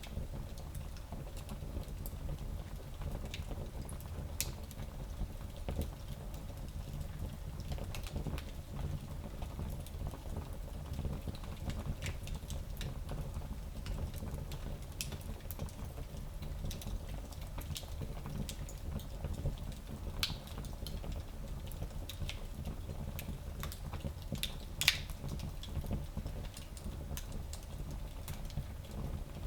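Fire burning in a small fireplace: scattered crackles and snaps over a steady low rumble, with one louder pop near the end.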